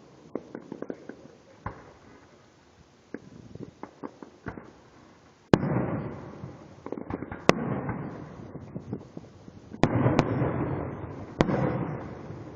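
Fireworks going off: a scatter of small crackling pops, then about a third of the way in a run of loud bangs, each followed by a rolling rumble that dies away over a second or two.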